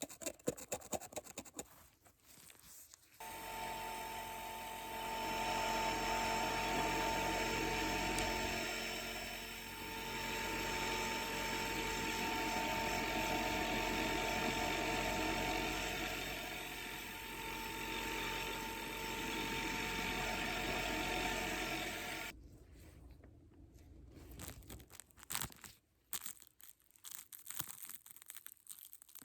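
Dental drill whining steadily for about twenty seconds, its pitch and loudness dipping and rising a few times, then cutting off suddenly. Light clicks and taps come before and after it.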